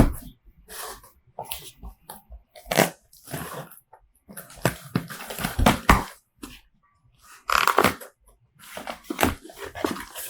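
Plastic packaging crinkling and tearing in short, irregular bursts as a packet of sweets is opened.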